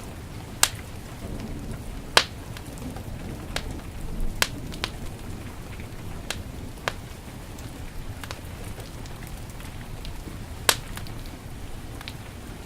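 Wood fire crackling in a fireplace, with sharp pops every second or two, two of them louder, over a steady hiss of heavy rain.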